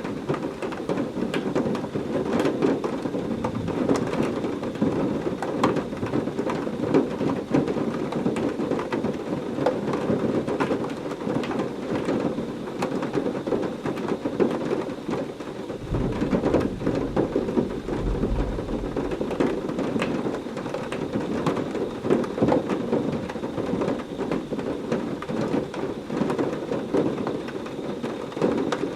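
Heavy rain falling steadily, with many sharp drop hits. Near the middle, a low rumble of thunder rolls for about three seconds.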